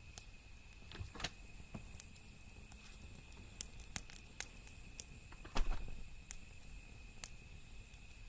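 Wood fire crackling: scattered sharp pops and snaps, with one louder, fuller crackle a little past halfway.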